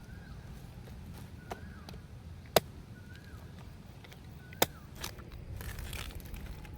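Two sharp knocks about two seconds apart, with a few softer clicks, over a low steady rumble; a brief rustle near the end.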